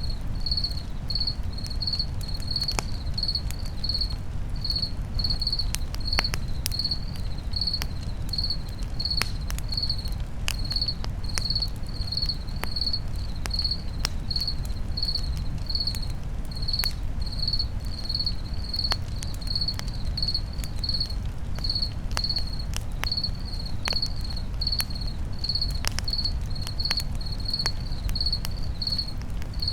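A cricket chirping steadily at about two chirps a second over a crackling campfire, with scattered sharp pops and a low, steady rumble.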